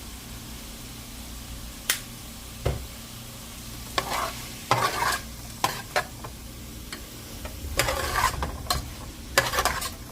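A cooking utensil stirring and scraping diced plant-based chicken and vegetables around a frying pan, in short irregular scrapes, over a steady low hum.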